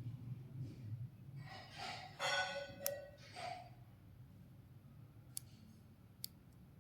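A short electronic chime of three brief pitched tones, followed by a few sharp clicks later on.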